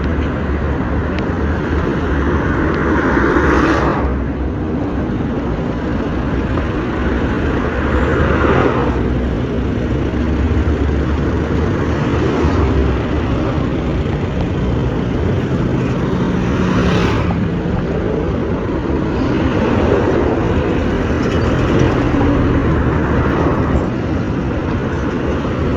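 Vehicle driving along a road: steady engine and tyre rumble, swelling a few times.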